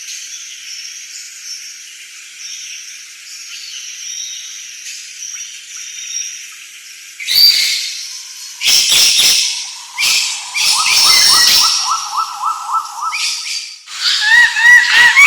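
Forest birds calling. A faint chorus of high chirps gives way, about seven seconds in, to loud calls of fast repeated notes, including a rapid trill and a run of short rising notes near the end.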